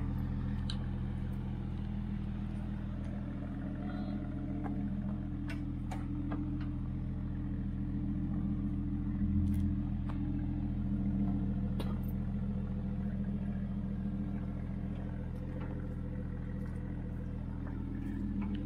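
Barra-swapped Nissan Patrol's Ford Barra straight-six running steadily at low revs as the four-wheel drive crawls up a rock step, rising a little about halfway through, with a few faint clicks.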